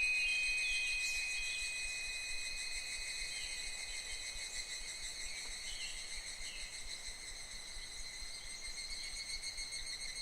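A furin wind chime's single ringing note slowly fades after a strike, alongside higurashi evening cicadas calling with short falling chirps.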